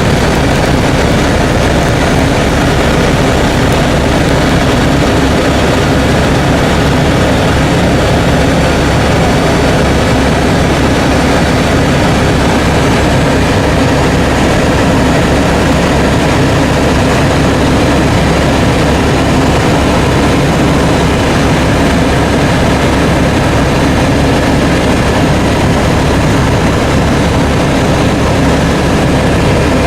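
Helicopter engine and rotor noise, loud and steady without a break.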